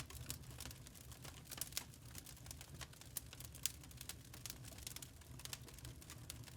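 Wood fire crackling in a fireplace: frequent irregular sharp snaps and pops over a low steady hum.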